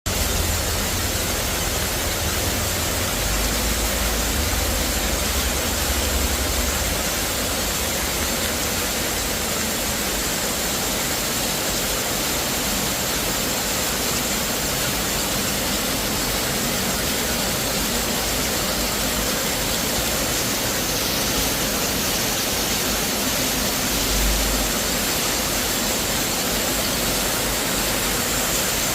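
Heavy rain falling, a steady even hiss, with brief low rumbles in the first several seconds and again near the end.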